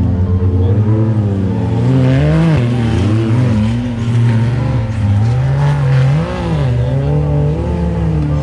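A vehicle engine revving up and down again and again, its pitch rising and falling every second or so.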